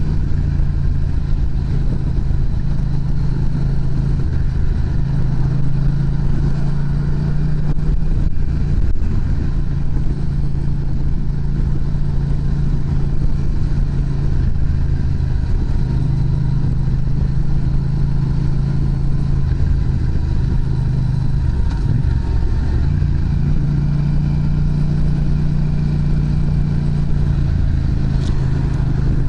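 Yamaha MT-07's parallel-twin engine running steadily through an aftermarket Prunus muffler. Its note shifts briefly about a third of the way in and again around two-thirds of the way through.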